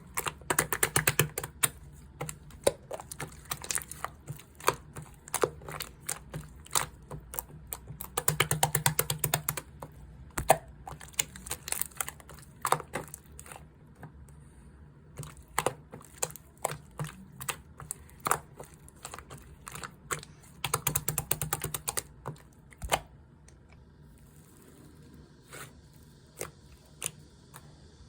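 Slime being kneaded, squeezed and poked, giving runs of rapid small clicks and pops with scattered single clicks in between; the clicking thins out near the end.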